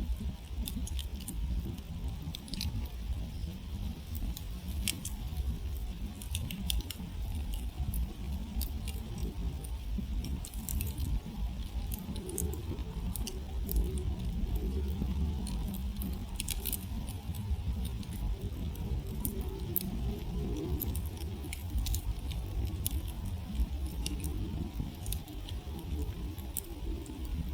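Wood campfire burning down to embers, crackling with sharp irregular pops, several a second at times, over a low steady rumble.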